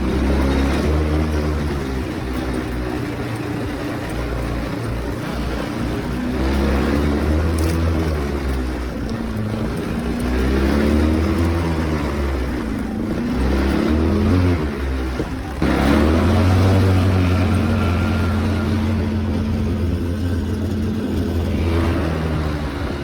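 A vehicle engine running under way, its pitch rising and falling as it speeds up and eases off, then holding a steadier note for the last third.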